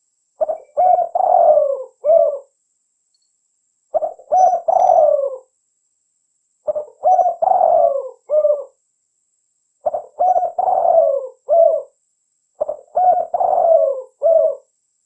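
Spotted dove cooing: five song phrases about every three seconds. Each phrase is a quick run of four or five low coos, with a longer note in the middle that falls in pitch.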